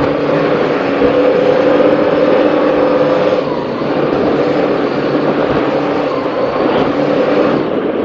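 Offshore racing powerboat's engines running hard at speed, a steady loud drone mixed with the rush of wind and water over the hull.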